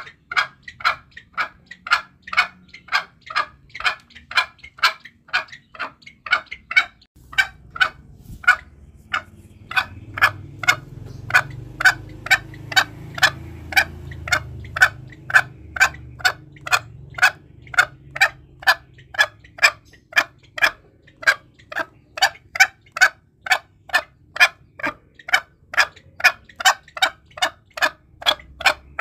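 Green junglefowl calling: short, evenly spaced notes about twice a second, a recording used as a lure call for hunting. A low rumble runs underneath for a stretch in the middle.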